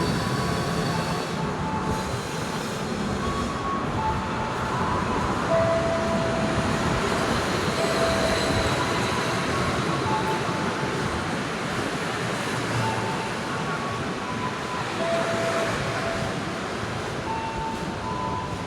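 Train arriving: steady rolling noise of the train running on the rails, with short high tones coming and going.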